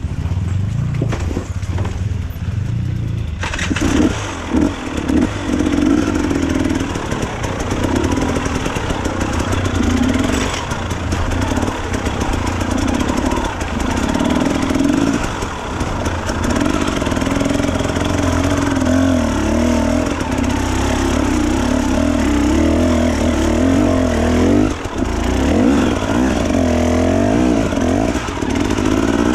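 Enduro dirt bike engine revving up and down as it is ridden, its pitch rising and falling over and over. It comes in loudly about four seconds in, over a lower engine rumble.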